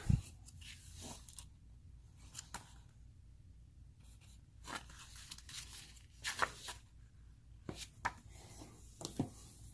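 Paper rustling as a rulebook is handled and its pages turned: faint, scattered rustles and soft flicks about every second or two.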